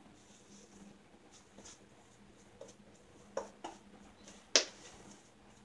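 Faint scrape of a shavette razor blade across stubble, with a few sharp clicks, three of them in the second half and the loudest about four and a half seconds in.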